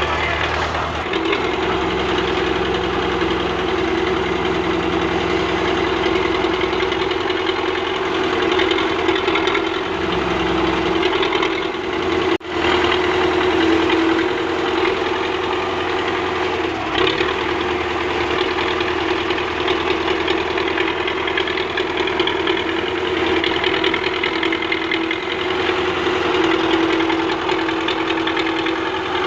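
Tractor engine running steadily with a constant drone, with a brief break in the sound about twelve seconds in.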